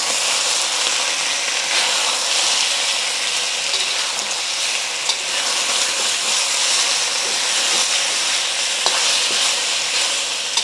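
Chicken thigh pieces sizzling steadily in hot oil in a steel wok as they brown, stirred with a metal spatula that scrapes and clicks against the wok a few times.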